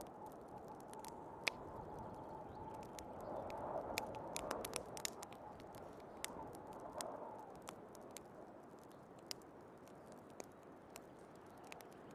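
Wood fire crackling with scattered sharp pops, over storm wind outside that swells into a gust a few seconds in and eases off past the middle.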